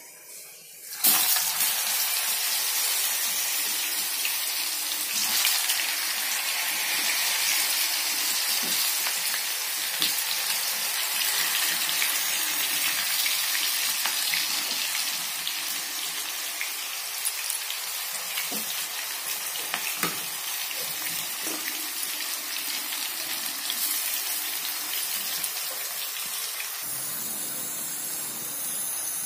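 Slices of raw green banana sizzling as they shallow-fry in hot oil in a frying pan. The sizzle starts suddenly about a second in as the pieces hit the oil, then runs on as a steady hiss with a few pops.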